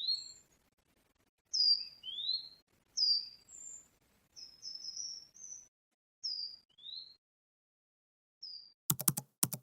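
A songbird singing a series of short chirps and whistled notes, some falling and some rising in pitch, about a second apart. Near the end, a quick run of sharp clicks.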